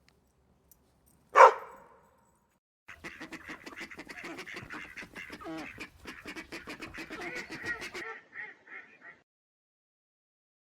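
Ducks quacking. One loud call comes about a second and a half in, then a dense, rapid chorus of quacks for about five seconds, thinning to a few separate quacks before it stops.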